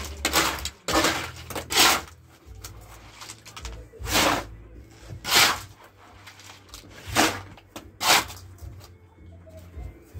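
Wet gravel-and-tile-adhesive mortar being scooped and scraped by hand while a cavity is filled: a series of short gritty scrapes, about one to two seconds apart.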